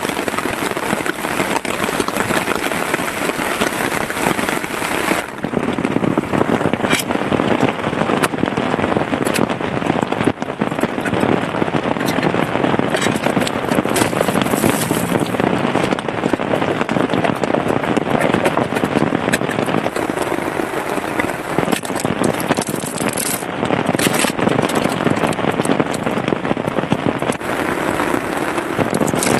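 Heavy rain pattering steadily, a dense crackle of drops striking close by.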